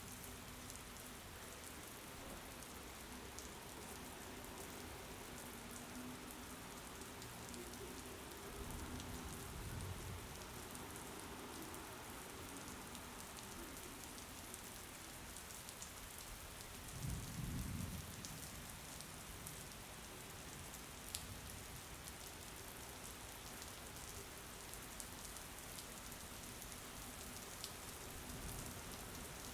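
Steady rain falling, an even hiss of drops, with a brief low rumble about two thirds of the way through.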